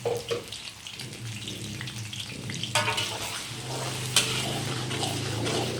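A blended paste of garlic, ginger, chili and lemongrass sizzling and crackling in hot oil in a pan. A utensil knocks against the pan with a brief ring about halfway through, and there is a sharp click a little later.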